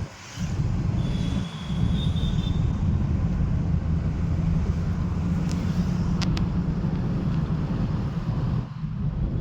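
Steady low rumble of a car driving: road and engine noise, with a few faint clicks in the middle and brief drops in level near the start and near the end.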